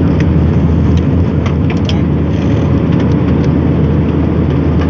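Airliner cabin noise: the jet engines and rushing air give a loud, steady low rumble with a faint steady tone running through it and a few light clicks.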